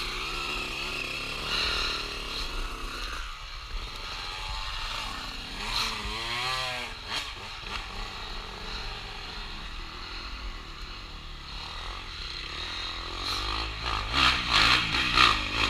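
Dirt bike engines running and revving on off-road trail, with the revs rising and falling about six seconds in and getting louder near the end.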